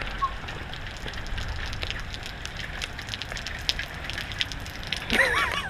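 Rain pattering steadily, a dense crackle of small drop ticks. A short voiced sound comes near the end.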